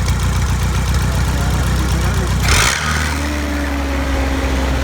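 Continental forklift engine running on its first start, with a freshly overhauled carburetor and a custom exhaust. About two and a half seconds in there is a short burst of hiss, and the engine's note shifts to a steadier, higher hum.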